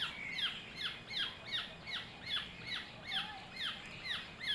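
A young oriole's begging calls while it is hand-fed: a steady series of short, sharply falling squawks, about two a second.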